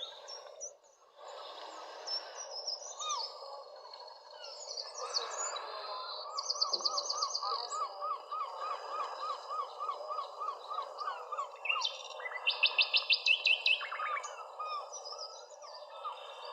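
Several birds singing and calling over a steady background hiss. One bird repeats a short note about three times a second through the middle, and two loud rapid trills stand out, one about seven seconds in and a louder one near thirteen seconds.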